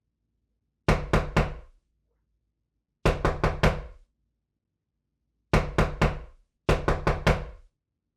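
Knocking on a door: four rounds of quick raps, three or four knocks in each, with pauses of a second or two between the rounds.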